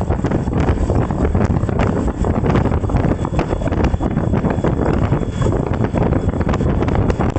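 Heavy wind buffeting the microphone: a loud, steady low rush with constant crackling gusts.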